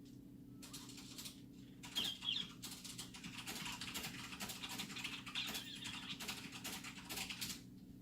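A parrot's beak pecking and scratching at a toy, a rapid clatter of small clicks. Two short high chirps from the bird come about two seconds in, over a steady low hum.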